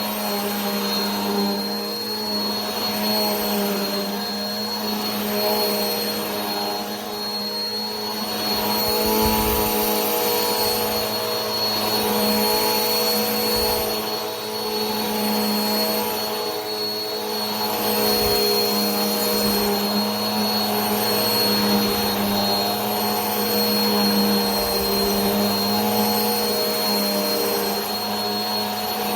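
Vacuum cleaner running steadily, a continuous rushing noise with a constant low hum and a thin high whine from its motor.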